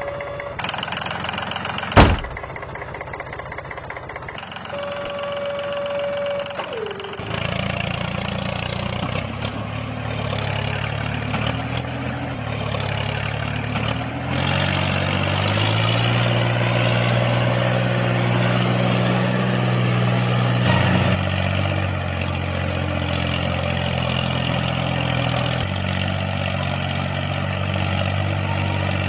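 Miniature H74 5cc two-cylinder four-stroke gasoline model engine running steadily, its speed stepping up and down a few times. There is a sharp click about two seconds in, and the steady running sets in about seven seconds in.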